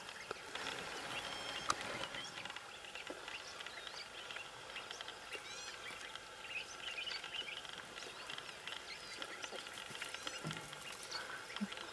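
Many short bird chirps and whistles scattered through, over a faint steady background hiss.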